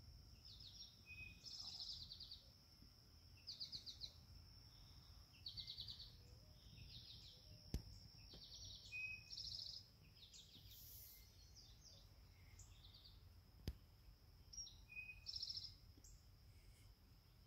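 Faint garden ambience at dusk: birds calling in short, high trilled phrases about every two seconds, with small chirps between, over a steady high-pitched hum. Two sharp clicks, about six seconds apart, are the loudest sounds.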